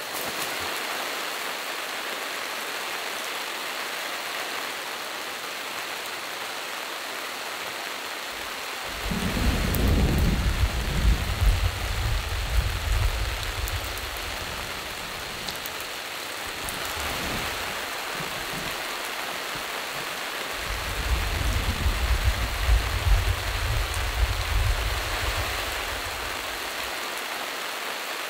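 Steady rain falling on a tarp shelter, with two long rolls of thunder, one about nine seconds in and one about twenty-one seconds in, each louder than the rain.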